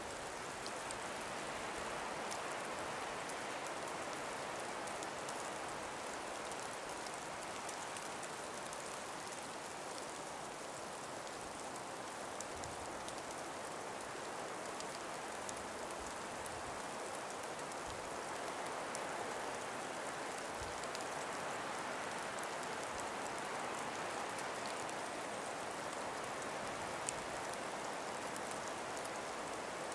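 A calm breeze moving through ice- and snow-laden forest trees: a steady, even hiss with faint scattered ticks.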